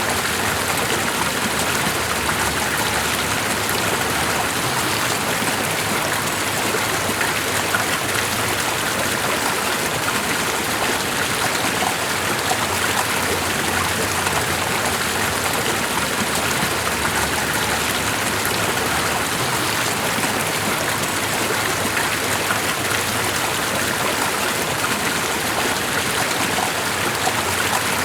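Steady, unbroken sound of running water.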